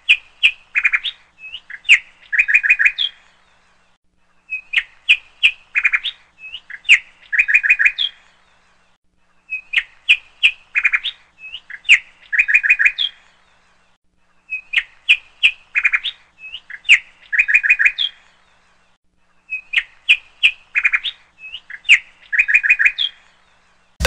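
Bird chirps and quick trills: the same phrase of about three and a half seconds plays five times over, with short pauses between.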